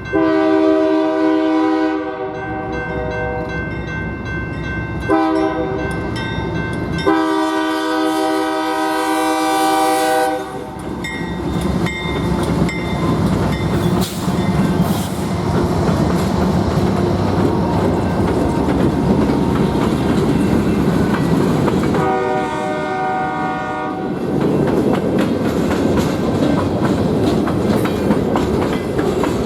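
A diesel freight train passing, its locomotive's multi-chime air horn sounding a long blast, a short one, another long one, and a further blast later on. From about ten seconds in, the rumble of the engines and the rattle and clack of wheels over the rail joints take over.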